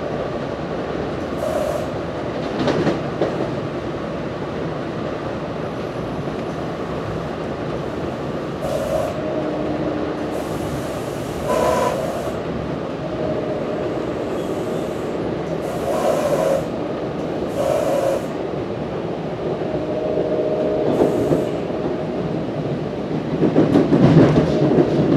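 Interior ride noise of a moving NJ Transit Multilevel II passenger coach: a steady rumble of wheels on rail, with short squeals and clicks every few seconds, growing louder near the end.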